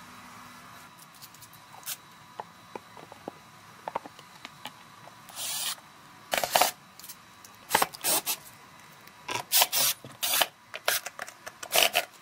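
Hand work with tools: scattered clicks, then short, irregular scraping and rubbing noises that come thicker in the second half.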